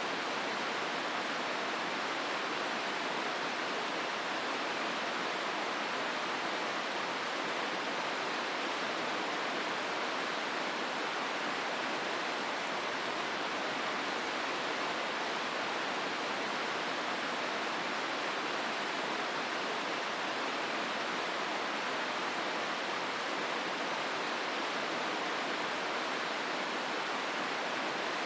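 Steady rush of the Hozu River flowing through Hozukyo Gorge, an even wash of water noise that does not change.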